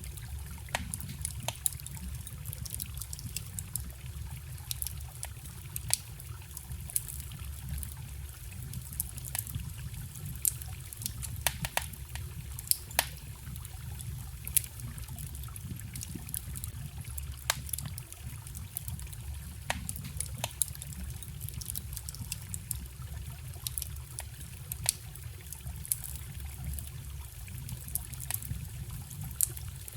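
Wood fire crackling, with frequent irregular sharp pops and snaps, a few louder than the rest, over a steady low rush of a forest stream.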